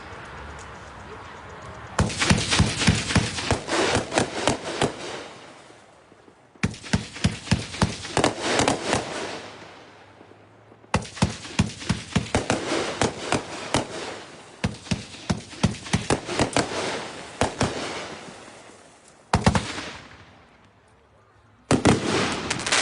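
A 23-shot consumer firework cake firing in five volleys, each a burst of rapid, sharp crackling pops that starts suddenly and then fades, with short quieter gaps between; the last volley begins near the end.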